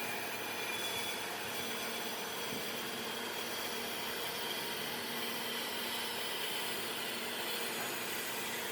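Workshop machine running steadily at an even pitch and level.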